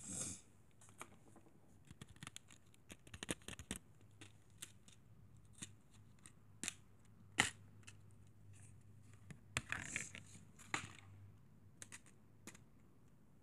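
Close-miked ASMR trigger sounds: irregular sharp clicks and light scrapes from small objects being handled, the loudest click about seven seconds in, with a short rustling burst around ten seconds.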